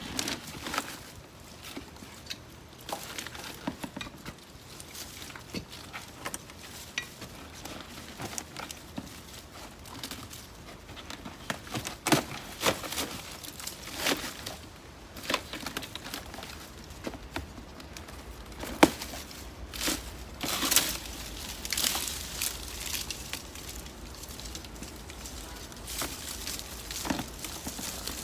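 Dry potato foliage, weeds and soil being handled and pulled by hand, giving irregular rustling and crackling with scattered sharp clicks, a few of them louder, through the stretch.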